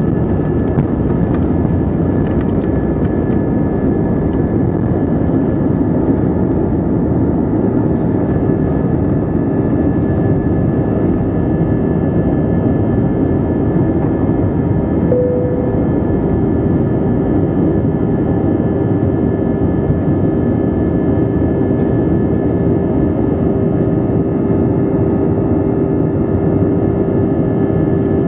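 Cabin noise inside an Airbus A320 airliner in flight: the steady roar of the engines and airflow with a constant low hum. A short faint tone sounds about halfway through.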